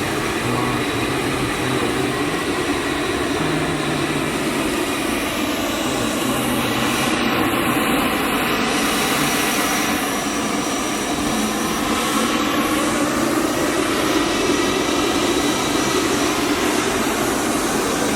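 Steady jet aircraft engine noise on an airport apron, with a faint high whine over it and a slight swell in the middle.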